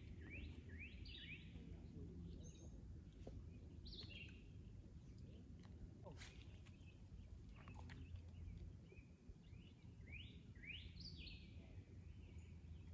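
A songbird singing short rising chirps in quick groups: at the start, about four seconds in, and again around ten to eleven seconds. Beneath it is a faint, steady low outdoor rumble.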